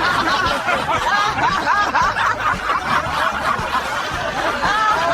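People laughing and snickering, several voices overlapping, in reaction to a joke.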